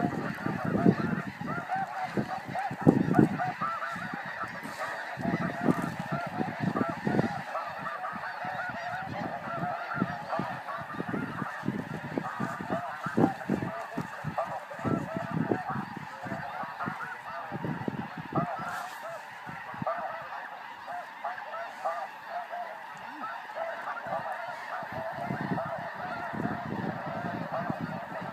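A huge flock of snow geese calling all at once, a dense, unbroken din of overlapping honks. Bursts of low rumble come in during the first seven seconds and again near the end.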